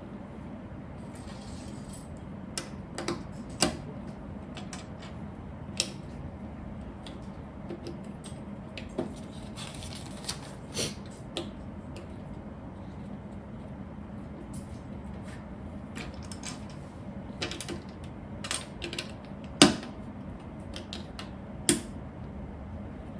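Plastic Lego pieces clicking and clattering as they are handled and pressed together: scattered sharp clicks, the loudest about twenty seconds in, over a steady low hum.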